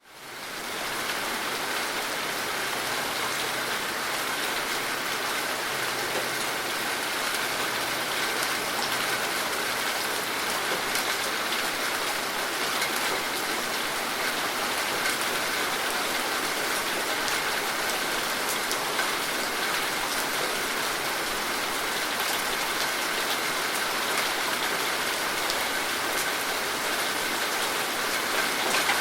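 Steady, heavy rain falling, a dense even patter that fades in over the first second.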